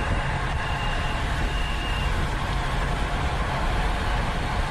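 Steady rumble of wind on a bicycle-mounted camera's microphone while riding, with a faint high tone sounding twice in the first two seconds.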